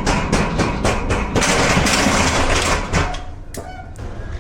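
A loud, even hiss of released air lasting about a second and a half, then a single sharp metallic click, over a steady low hum; typical of a semi-truck's air brakes being set.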